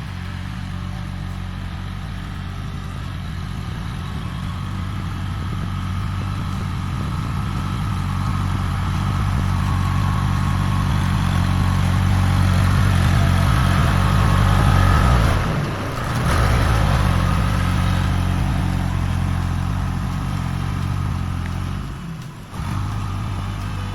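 A heavy vehicle engine running steadily. It grows louder over about the first fifteen seconds, drops briefly, then carries on.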